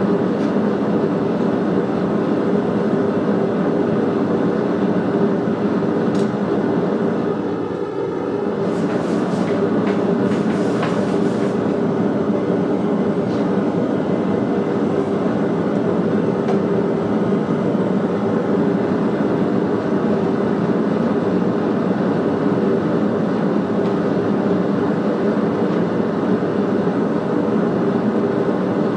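A machine running with a steady, loud roar and a low hum, dipping briefly about eight seconds in, with a few light knocks just after.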